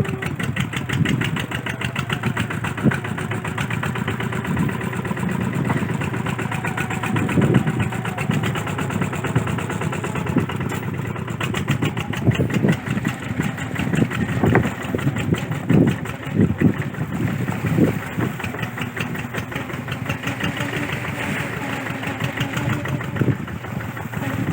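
Kubota RT140 single-cylinder diesel engine running steadily, its firing beat continuous, with a few brief low knocks partway through.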